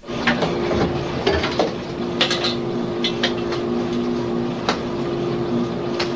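Steady hum of a patrol boat's machinery, with irregular sharp metallic clanks and knocks over it.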